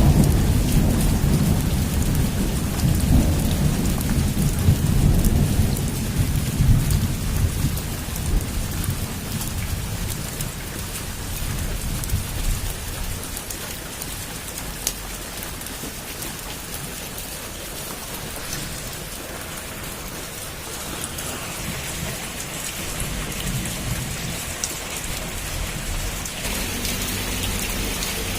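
Heavy rain with a roll of thunder rumbling low at the start and dying away over the first several seconds. After it, a steady rain hiss full of small drop ticks.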